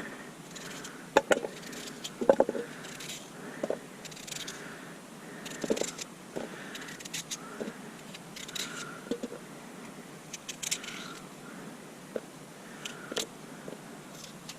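Irregular clinks, knocks and scrapes of camp cookware and gear being handled, over a steady faint hiss.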